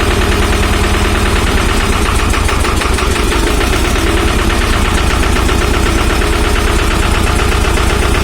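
Lombardini 832 diesel engine of a Goldoni 238 Universal articulated tractor, running steadily after a cold start. Its firing pulses come evenly and rapidly, with a loud, knocking diesel clatter.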